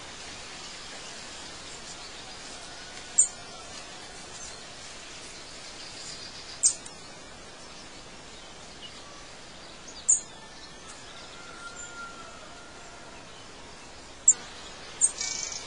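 A bird chirping in short, high calls every three or four seconds, twice in quick succession near the end, over a steady background hiss.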